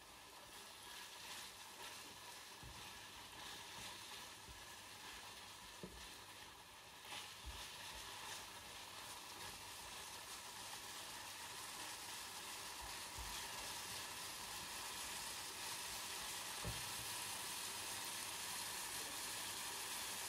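Sliced oyster mushrooms and onion sizzling in oil in a frying pan while being stirred with a spatula, with a few soft knocks against the pan. The sizzle grows gradually louder.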